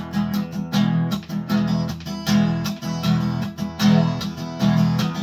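Acoustic guitar strummed in a fast, even rhythm, playing the instrumental intro of a song.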